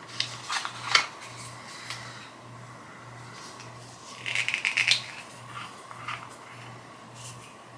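A small cosmetic package being handled and opened: scattered clicks and taps, then a short run of rapid clicking a little past halfway.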